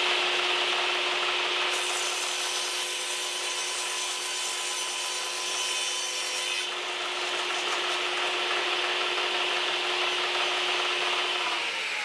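Table saw ripping through a plywood panel on a panel-cutting jig, trimming one edge square: a steady, continuous cut with the saw's hum underneath, the hum dropping away near the end.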